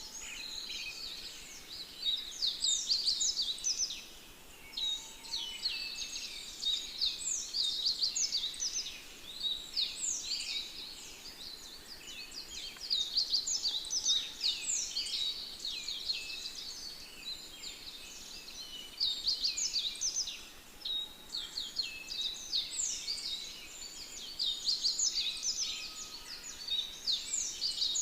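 A chorus of many small birds chirping and twittering at once: a dense mass of quick, high, falling chirps that swells and eases every few seconds.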